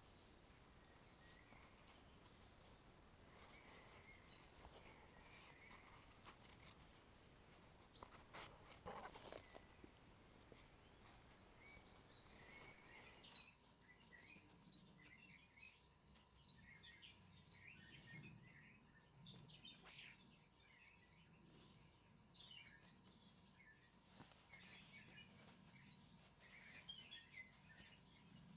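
Faint birds chirping, many short high calls through the second half, over a quiet background hiss. A few soft knocks come about eight to nine seconds in.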